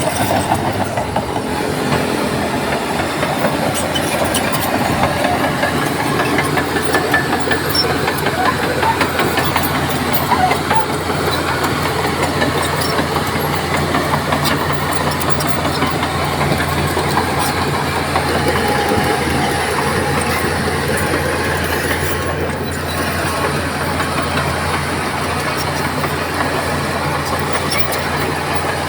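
Crawler bulldozer's diesel engine running steadily, with clanking from its steel tracks.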